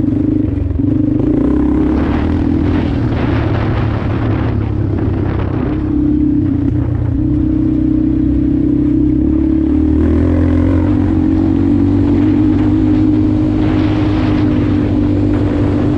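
Motorcycle engine running steadily while riding, its pitch shifting a little with the throttle, with stretches of rushing noise.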